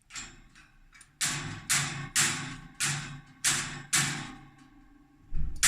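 A series of sharp taps or knocks, each dying away quickly: a faint one at the start, then six loud ones at about two a second, and another near the end.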